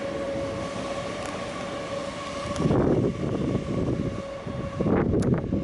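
Class 800 bi-mode train pulling out on diesel power with a steady whine, which breaks off briefly about halfway through and stops near the end. Gusts of wind buffet the microphone twice.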